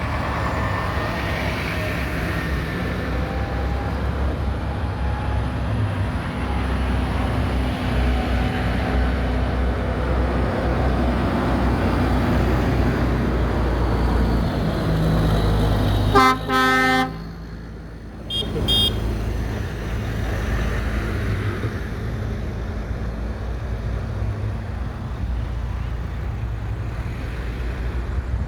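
Classic tractor engines running steadily as tractors pass. About sixteen seconds in, a horn sounds once for under a second, then gives two short toots a couple of seconds later.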